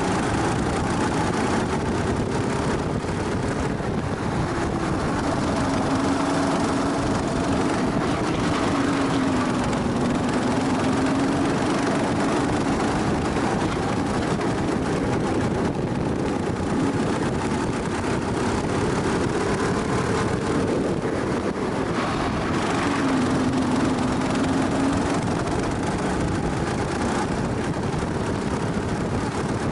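Go-kart engine heard onboard at speed, running continuously, its pitch climbing and dropping several times as the kart speeds up and slows around the track.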